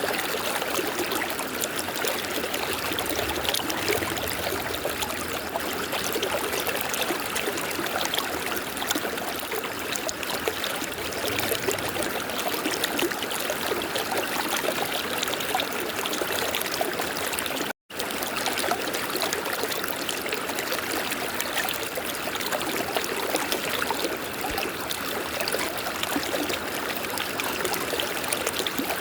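River water flowing over stones, a steady rushing and trickling. The sound drops out completely for an instant about two-thirds of the way through, then carries on unchanged.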